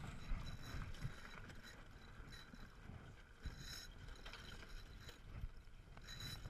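Small sailboat coming about in a tack: wind rumbling on the microphone over a hiss of water and air, with about four short high squeaks from the rigging as the sheets and sail shift.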